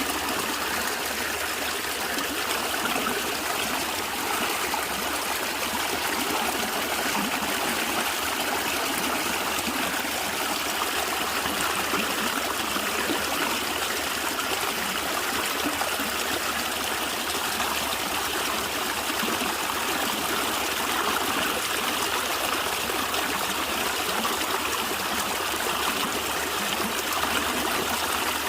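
A stream of water gurgling and trickling steadily over stones.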